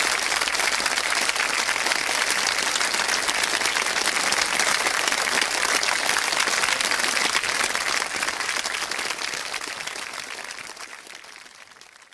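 Studio audience applauding, a dense steady clatter of many hands that fades away over the last few seconds.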